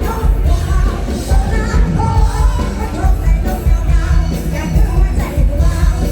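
Loud live band music amplified through a PA, with a heavy pulsing bass beat and a woman singing in Isan folk-pop style.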